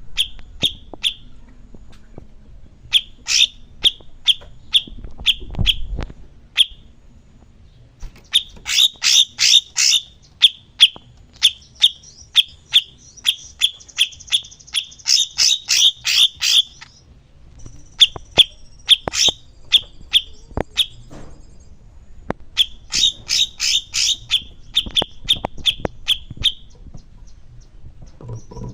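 Cucak cungkok songbird calling: runs of short, sharp, high chirps, about three a second, separated by short pauses, with a higher buzzy trill in the middle.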